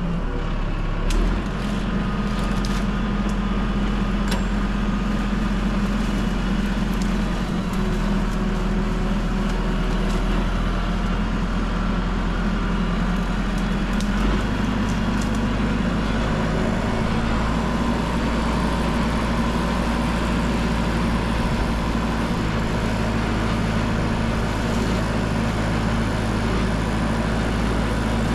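Tractor engine running steadily, its pitch shifting slightly about halfway through, with a few light clanks in the first few seconds.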